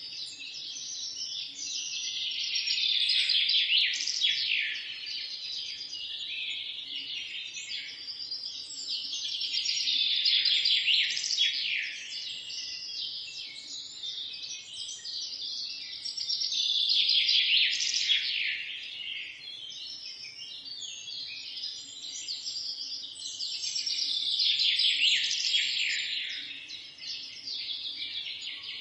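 A chorus of several songbirds chirping and trilling over one another, swelling and easing every few seconds, with a faint low hum beneath.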